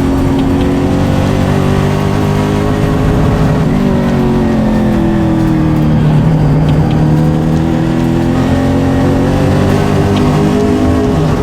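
Late Model race car engine running hard, its revs falling about four seconds in, climbing again from about six seconds, and dropping once more near the end.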